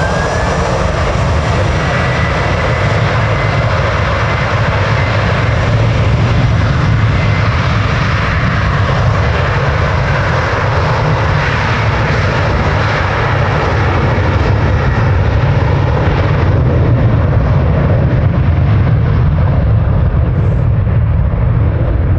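Jet airliner engines at high power: a loud, steady rumble of jet noise with a faint rising whine near the start. The high hiss gradually dulls and fades toward the end as the aircraft draws away.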